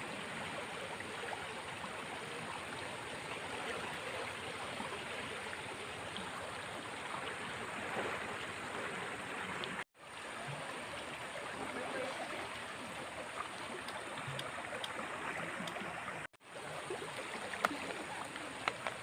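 Steady rush of flowing water, cutting out briefly twice, about ten and sixteen seconds in, with a few sharp clicks near the end.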